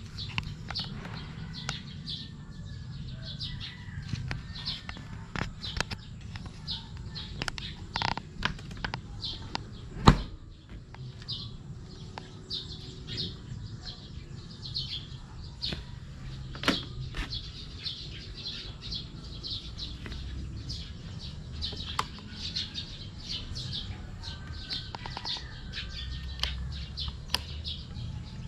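Small birds chirping in quick, repeated short notes, over a low background rumble. A few sharp clicks, and one loud thump about ten seconds in.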